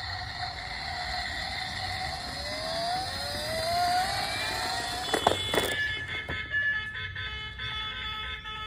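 A siren, with steady tones, then a pitch that rises over about two seconds, followed by a few sharp clicks around the middle and steady electronic tones to the end.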